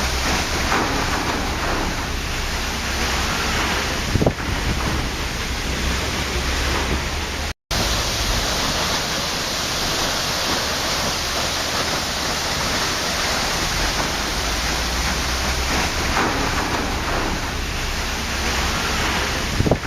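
Waterfall: a steady rush of falling water, with the sound cutting out completely for a split second about seven and a half seconds in.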